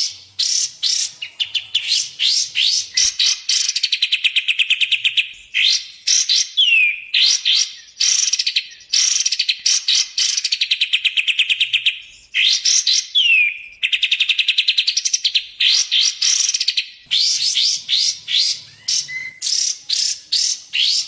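Songbird song: bursts of fast repeated chattering notes alternating with long, rapid trills, with a couple of clear down-slurred whistles.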